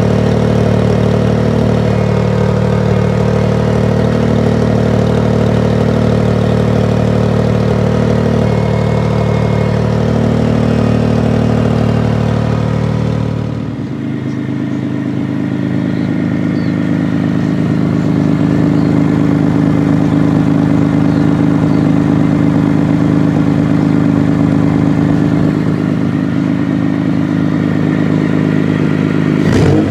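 Supercharged Toyota 3MZ-FE V6 engine running at a steady idle with no revving. About halfway through its tone changes abruptly and then holds steady again.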